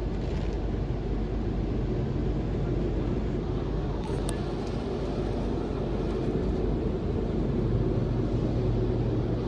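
Automatic tunnel car wash equipment running, heard from inside the car's cabin as a steady low rumble, with a couple of faint clicks about four seconds in.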